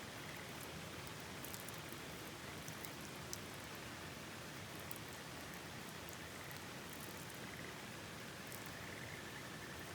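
Steady hiss of rain and river water, with scattered faint ticks. Faint frog trills come twice in the second half.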